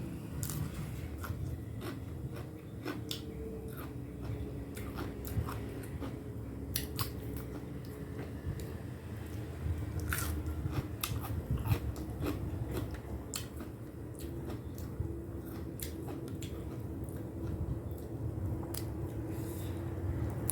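A person chewing and crunching food up close: bites of pounded salad with cooked blue swimmer crab and raw vegetables. Irregular sharp crunches and clicks come several times a second.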